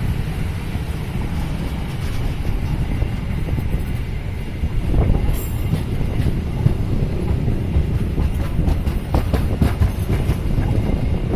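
A Bandung Raya local train passing close by, rumbling steadily on the track. Scattered sharp clicks and knocks come in from about five seconds in.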